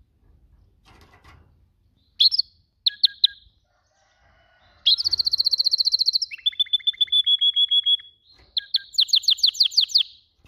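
Domestic canary singing: a few short chirps, then from about halfway through a song of rapid trills, several fast repeated-note phrases one after another at different pitches.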